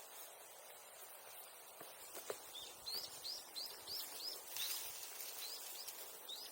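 A small bird calling: a series of short rising chirps, about three a second, starting about two and a half seconds in, with a brief pause partway through. A couple of faint knocks come just before it.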